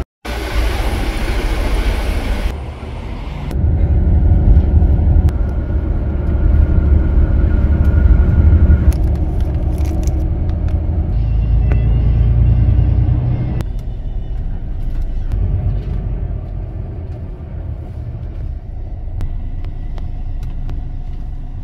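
Low rumble of a bus's engine and road noise, cut abruptly in a few places where short clips are joined.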